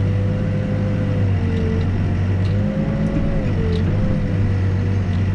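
Backhoe's diesel engine running steadily under load while digging, with a whining tone that dips and rises in pitch a few times.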